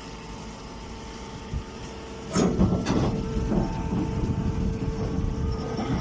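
Hay press baler machine running with a steady motor hum, then a loud clank about two seconds in as a louder, rattling mechanical working cycle begins, with a few more knocks.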